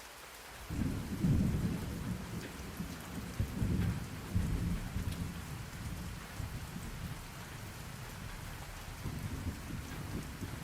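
Steady rain hiss with a roll of thunder that breaks in suddenly just under a second in, rumbles loudest for the next few seconds, then eases to a lower rumble.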